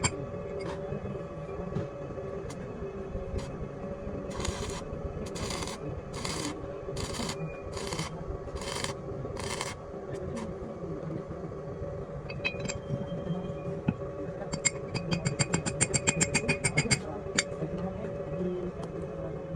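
A steady machine hum under a series of about seven even scraping strokes, like a hand tool worked back and forth over metal during a tractor wheel-part restoration. Later comes a brief run of rapid metallic ticking.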